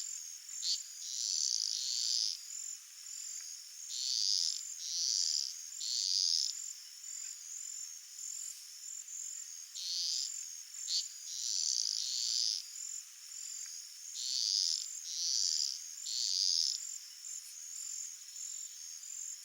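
Calling animals, frog- or insect-like: a steady, high, pulsing trill throughout, with louder raspy calls in groups of three, each about half a second long, recurring every few seconds, plus a couple of sharp clicks.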